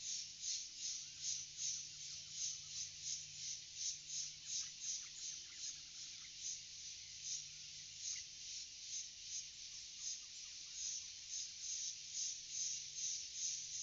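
Forest ambience: a high-pitched call pulsing steadily about two to three times a second, with faint short chirps of birds over it.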